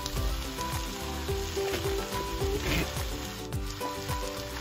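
Chopped spinach leaves sizzling as they are tipped into a hot wok, over background music with a steady beat.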